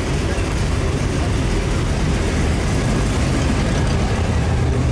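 Classic and muscle cars driving slowly past in a line, a steady low engine note, with one car passing close about four seconds in.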